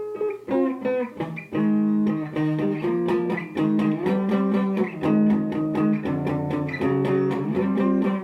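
Guitar music: an instrumental passage of picked notes and chords at a steady pace, with no voice over it.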